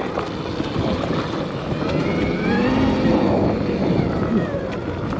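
Electric dirt bike's motor whining under heavy load, its pitch rising and then falling about halfway through, over a rumble of tyre, wind and trail noise. It is a hard, power-hungry pull on rough ground.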